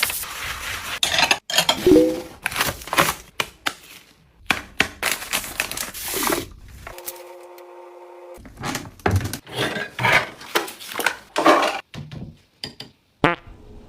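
Household items clattering and knocking as they are handled and set down in quick, irregular succession, with a brief steady hum for about a second and a half past the middle.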